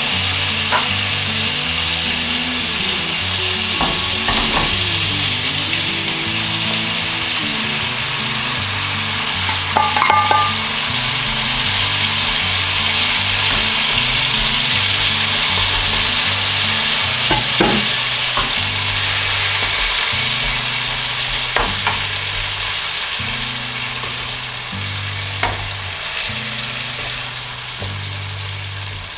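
Food frying in hot oil in a pan, a steady dense sizzle, with a few sharp clicks of a utensil against the pan.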